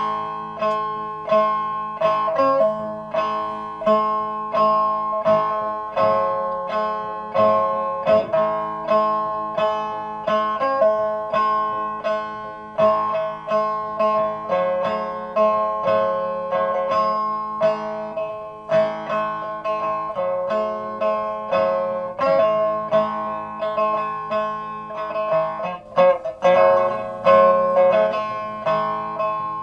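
Music played on a plucked string instrument: a slow melody of single plucked notes, about one or two a second, each ringing and dying away, with a quick flurry of notes near the end.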